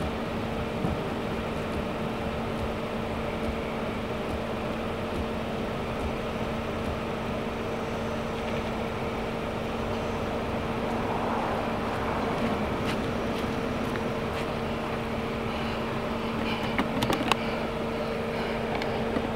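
Nissan Sentra sedan idling with a steady, even hum. About ten seconds in, rustling comes as someone climbs out through the open driver's door, and a few sharp clicks follow near the end.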